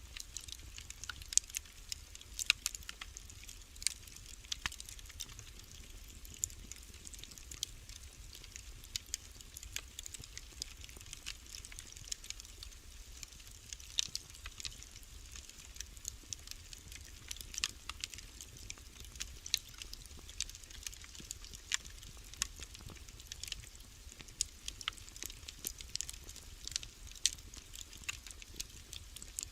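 Wood fire burning in a fireplace, crackling with irregular sharp pops and ticks over a low steady rumble.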